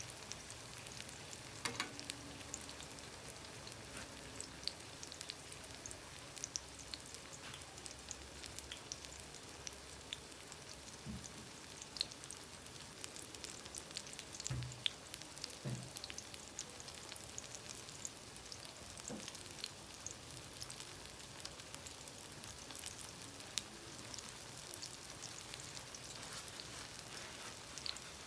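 Plantain slices frying in hot oil in a pot, a steady sizzle full of fine crackles and pops, with a few dull knocks near the middle.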